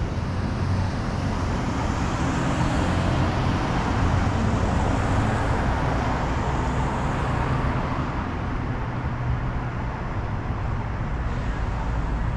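Road traffic noise heard from a moving bicycle: a steady low rumble, with a vehicle swelling past over several seconds near the middle.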